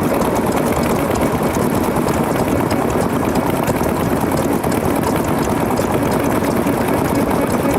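Old Japanese stationary farm engines (hatsudoki) running together, a steady mix of rapid engine beats.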